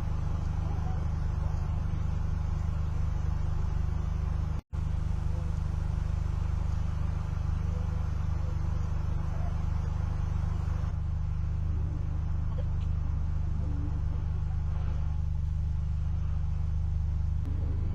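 Steady low drone of a car driving, heard from inside the vehicle: engine and road noise. The sound cuts out for an instant a little before five seconds in.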